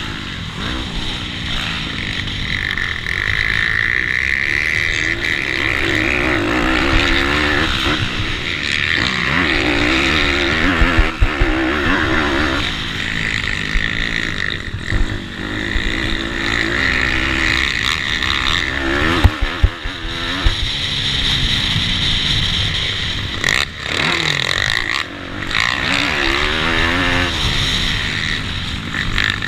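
Small single-cylinder pitbike racing engines revving hard, the pitch climbing and dropping again and again through gear changes and corners. There are a few brief thumps along the way.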